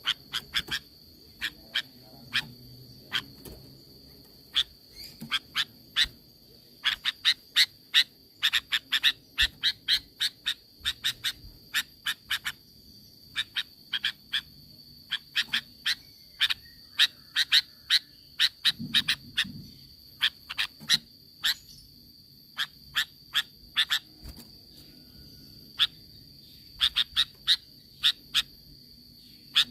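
Sooty-headed bulbul (kutilang) calling: rapid strings of short, sharp notes in bursts, with brief pauses between them.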